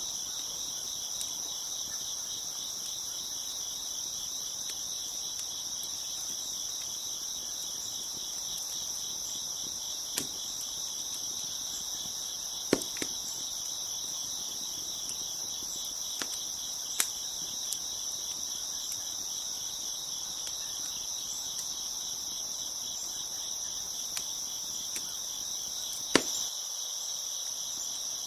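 Crickets chirping in a steady, dense chorus, broken by a handful of sharp pops from a crackling wood fire, the loudest pop near the end.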